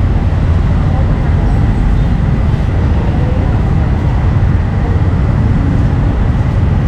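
Steady low rumble of busy street ambience with indistinct voices in the background.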